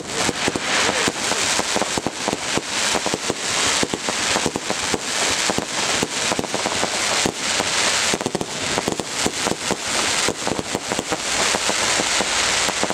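Aerial display fireworks bursting in rapid succession: a dense, continuous run of overlapping bangs and crackling, many reports a second.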